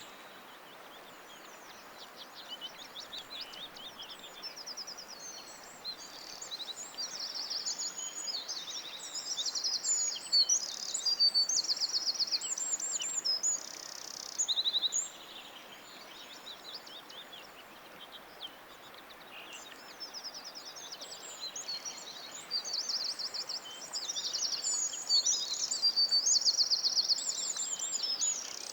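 Songbirds singing in a forest: high, rapid trills and chirps in two long bouts with a lull in the middle, over a faint steady hiss.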